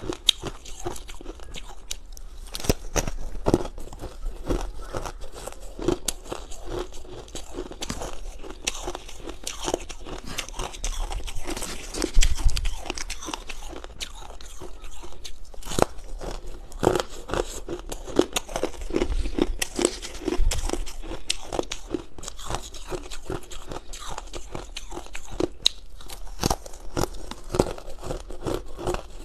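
Hard ice being bitten and chewed close to the microphone, a dense run of sharp crunches and cracks, with the loudest crunch about twelve seconds in.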